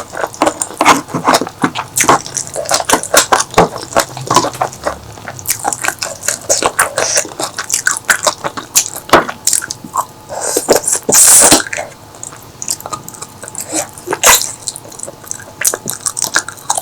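Close-miked eating sounds: wet chewing, lip smacks and mouth clicks coming thick and fast, with one longer, louder rush of noise about eleven seconds in.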